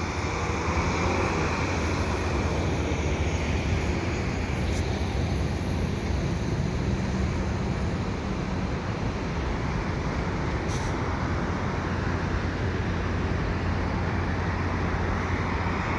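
Steady low rumble of idling diesel commuter-train locomotives, a constant low hum with no change in pitch, mixed with the wash of city traffic.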